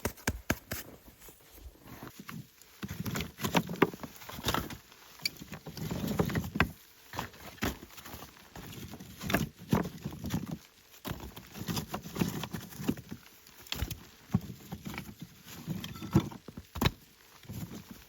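Footsteps crunching through deep snow, a slow, uneven step every second or so.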